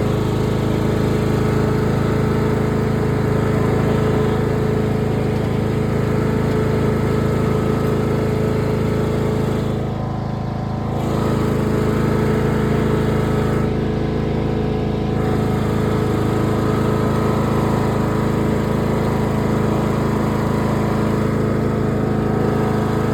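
Cub Cadet lawn mower engine running steadily at a constant speed, with a brief slight dip in loudness about ten seconds in.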